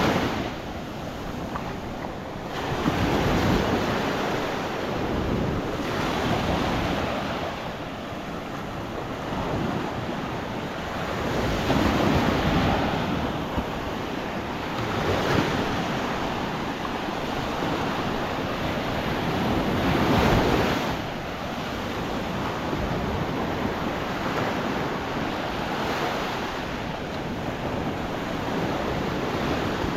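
Small waves breaking and washing up the shore in swells a few seconds apart, the loudest about a third of the way in and again about two-thirds in, with wind on the microphone.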